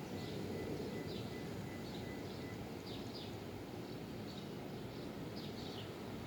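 Birds chirping: short high calls that slide down in pitch, coming irregularly about once a second, over a steady low background rumble.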